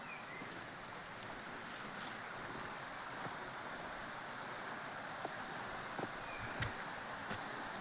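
Outdoor ambience: a steady hiss of wind or rustling foliage, with scattered faint ticks, a few short faint chirps and a soft low thump near the end.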